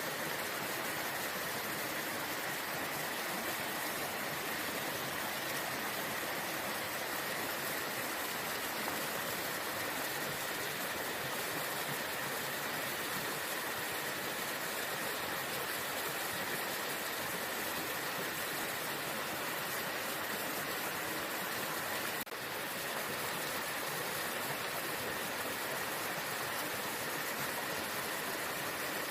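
Waterfall rushing in a steady, unbroken roar of falling water, with a momentary dip about three-quarters of the way through.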